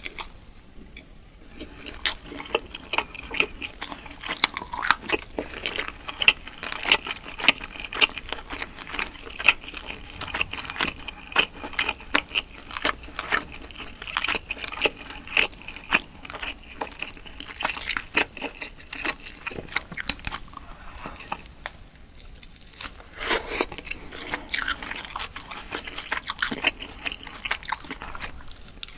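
Chewing and biting on grilled, sauce-glazed chicken skewers: a dense run of short wet smacks and clicks, with brief lulls just after the start and a little past two-thirds of the way through.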